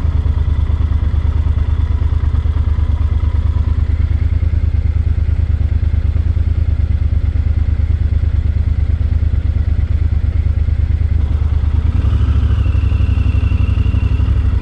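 Yamaha Super Ténéré XT1200's parallel-twin engine idling with an even low pulse.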